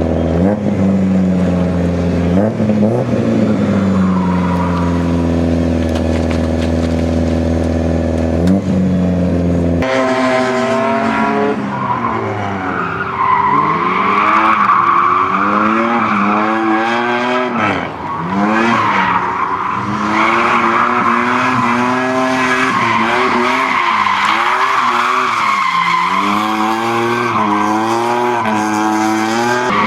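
Car engine running steadily, then from about ten seconds in revving up and down repeatedly as the car is driven hard through turns, with the tyres squealing and skidding.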